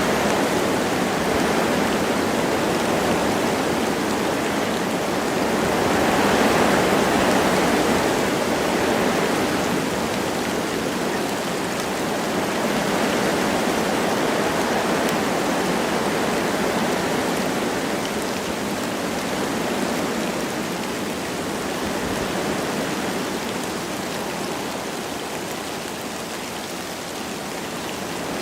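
Wind rushing through forest trees with light rain falling, a steady noise that swells around six seconds in and then slowly eases.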